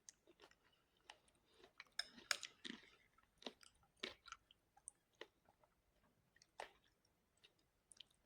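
Close-miked eating sounds: a person chewing, with crisp crunches and small wet mouth clicks scattered irregularly. A dense cluster of crunching comes about two seconds in.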